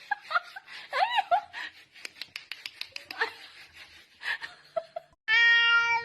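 A cat meowing: short rising-and-falling meows about a second in and a few more among scattered clicks and rustles. Near the end a loud cry held at a steady pitch starts suddenly.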